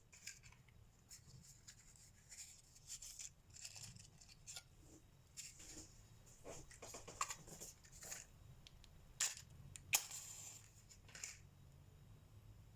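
Colored pencil scratching on paper in short, quick strokes, with two sharp clicks about three quarters of the way through.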